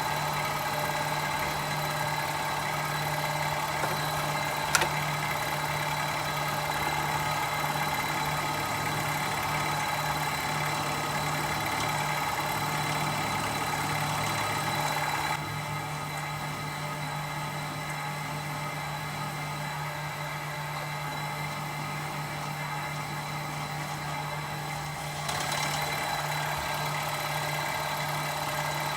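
Machine-tool motor and spindle running steadily while drilling a hole in bar stock for a pinch bolt, a steady hum with a higher whine. There is a single click about five seconds in. About halfway through, the higher whine drops away for some ten seconds, then comes back.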